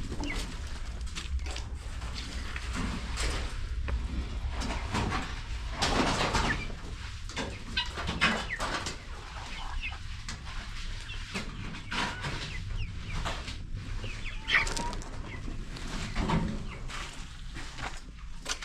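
Chickens clucking, with short high calls now and then, among scattered knocks and scrapes.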